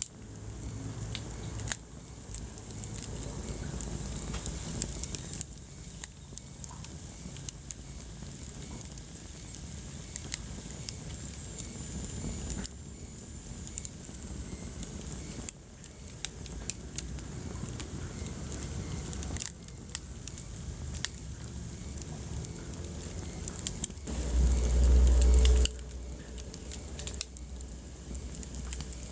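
Wood fire burning in a fireplace, crackling with frequent sharp pops and snaps over a steady low rumble. About 24 seconds in, a louder low rumble lasts for a second and a half.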